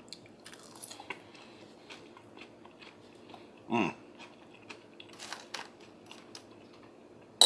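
A person chewing a barbecue chicken sandwich and fries, with light clicks of a fork on the plate. A short hum about four seconds in, and a sharp clink of the fork on the plate at the very end.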